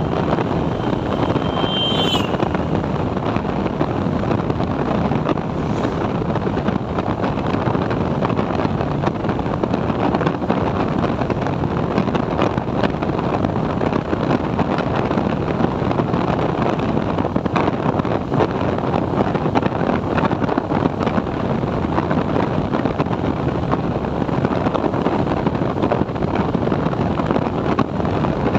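TVS Apache 4V motorcycle riding steadily, its engine and road noise mixed with wind buffeting the microphone. A short high tone about two seconds in.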